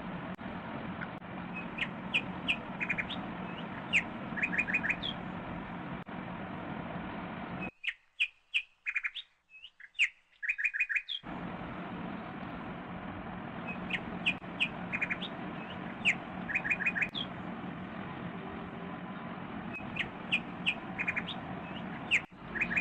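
Small birds chirping in short groups of three or four quick high notes, repeating again and again over a steady low hum. The hum cuts out for a few seconds in the middle while the chirping goes on.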